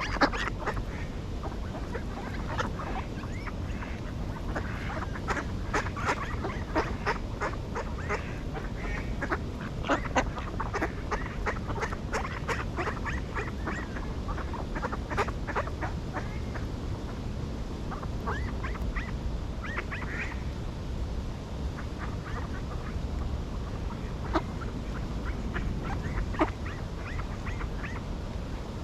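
Ducks quacking, many short calls in irregular bunches, thinning out after the middle, over a steady low rumble.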